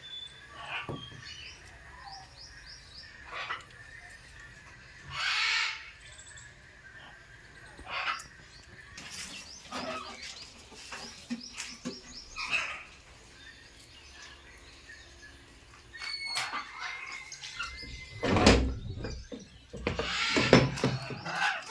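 Pet parrots chirping and squawking in scattered short calls, with a few light clicks. The calls get louder and come closer together near the end.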